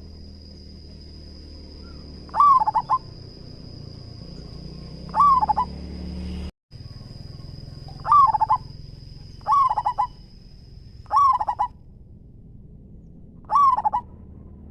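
Local-strain zebra dove (perkutut) cooing: six short calls spaced a couple of seconds apart, each a quick run of a few notes. A faint steady high whine runs underneath, and all sound cuts out for an instant about six and a half seconds in.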